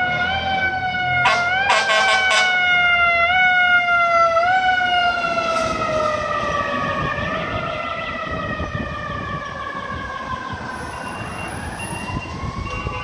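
Fire truck's mechanical siren winding down in a slow falling wail, pushed back up in pitch a few times, with a few short sharp blasts about a second or two in. It fades as the truck moves away, and another siren starts rising near the end.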